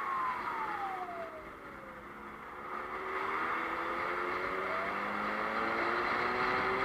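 Car engine slowing with its pitch falling for about two seconds, then accelerating with a steadily rising pitch, over steady road noise.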